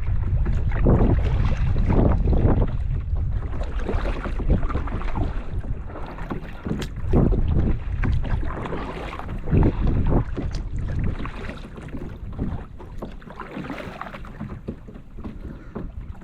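Kayak paddle strokes dipping and splashing in calm water, every second or two, with wind buffeting the microphone, heavier in the first half.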